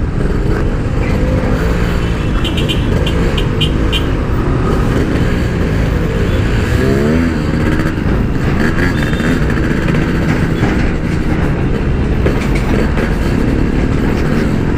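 Yamaha RX-King 135cc two-stroke single-cylinder motorcycle engine running under way through its Packing Power 'standart belek' exhaust. Its revs rise and fall, with a quick rev-up about seven seconds in.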